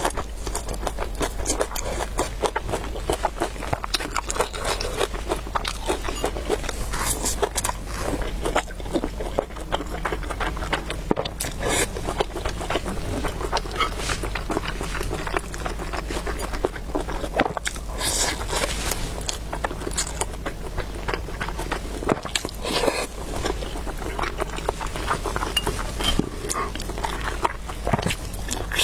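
A person eating noodles close to the microphone: continuous chewing and wet mouth clicks, with frequent small scrapes.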